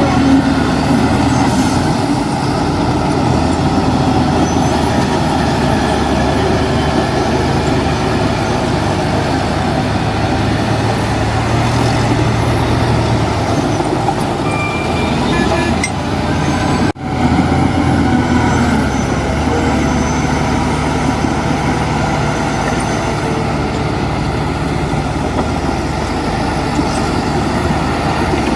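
Heavy diesel earthmoving machinery running steadily, with a deep engine hum under a dense mechanical clatter; the sound drops out for an instant a little past halfway.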